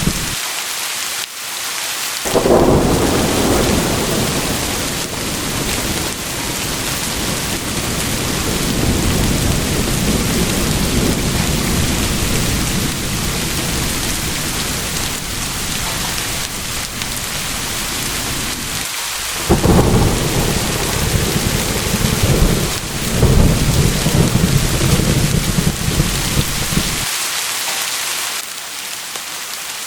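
Steady rain with two long rolls of thunder. The first rumbles in about two seconds in and lasts most of the first two-thirds. The second starts about two-thirds through and cuts off abruptly near the end, leaving the rain alone.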